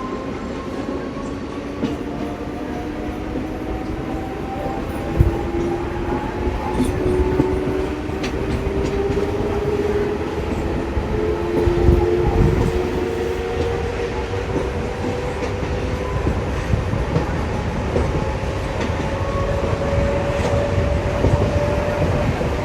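Train running on the rails and gradually picking up speed, a whine climbing slowly and steadily in pitch over the rumble, with occasional sharp clicks of the wheels over rail joints.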